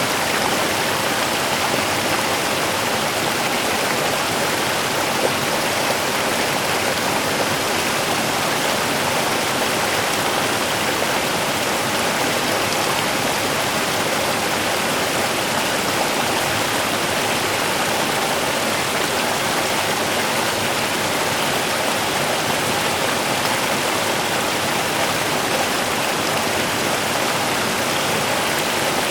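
Small river's water running and splashing steadily.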